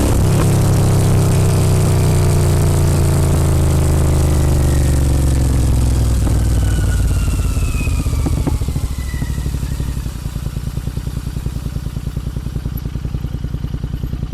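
Royal Enfield Continental GT 650's parallel-twin engine through a Red Rooster aftermarket exhaust, running loud with its pitch falling as it slows, then settling about ten seconds in to a quieter, evenly pulsing idle.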